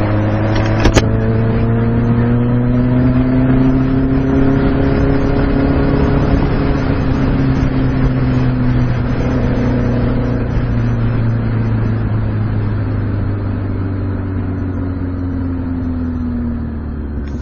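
A 2006 Kawasaki ZX6R 636's inline-four engine running under way. Its pitch climbs gently over the first few seconds, holds, then slowly drops as the bike eases off near the end. There is a sharp click about a second in.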